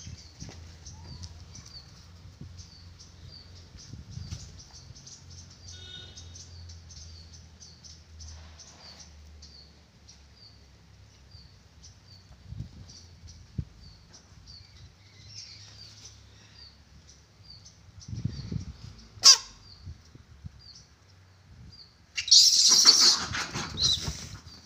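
A small bird chirping steadily, one high chirp about every half second. About 19 seconds in there is a single sharp click, and near the end a loud rustling noise lasting about two seconds.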